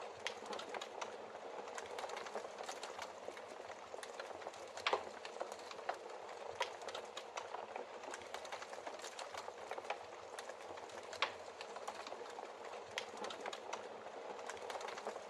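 Wood logs burning in a fireplace: a steady hiss of flame with constant crackling and a few louder pops, about five, seven and eleven seconds in.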